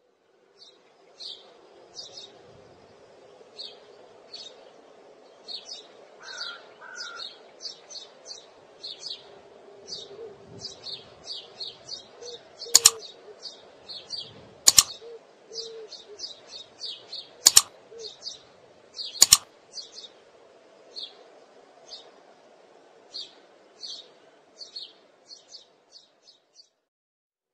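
Small birds chirping in quick short calls, two or three a second, over a steady low hum. About halfway through come four sharp clicks, the loudest sounds.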